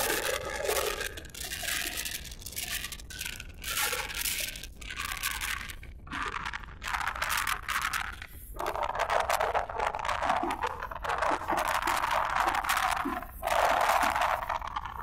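Strong gusty wind: a rushing hiss that swells and falls in gusts, with crackling throughout.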